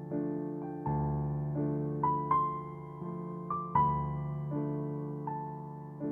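Background music: a slow, gentle piano piece, notes and chords struck about every three-quarters of a second and left to fade.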